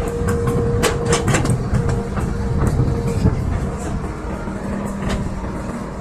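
Excavator running, its engine a dense low rumble under a series of sharp metallic clanks, most of them in the first half, with a steady whine over them.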